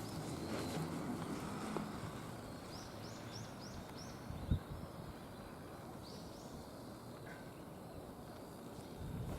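Outdoor ambience: a low rumble dies away over the first couple of seconds, then a bird gives a quick run of about five short rising chirps, with a couple more a little later. A single thump sounds about four and a half seconds in.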